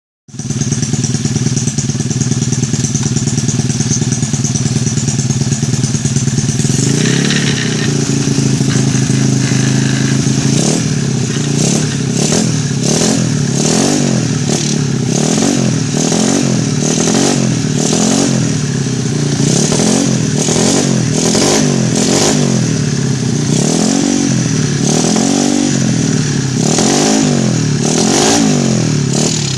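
Yamaha Mio automatic scooter's single-cylinder engine, bored to 150 cc, running through a CLD C7 racing exhaust. It idles steadily for about seven seconds, then is revved in quick throttle blips over and over, the pitch rising and falling about once a second.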